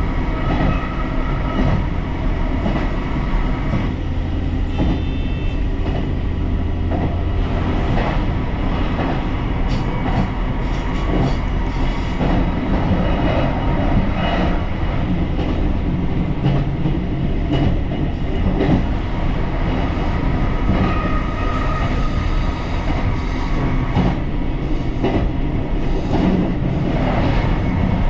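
JR Shikoku 2700 series diesel railcar under way, heard from on board: a steady rumble of engine and wheels on the rails, with scattered clicks of the wheels over the track.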